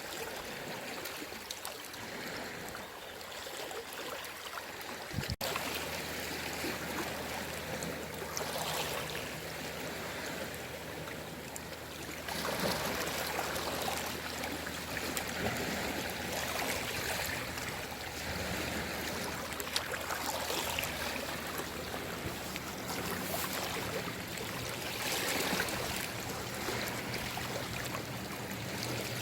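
Small sea waves washing in on the shore, a continuous wash of water noise that swells every few seconds.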